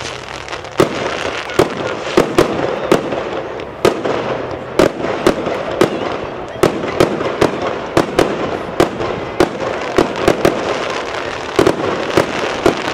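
Fireworks display: a rapid, irregular run of sharp bangs, roughly two a second, over a continuous noisy hiss of crackling.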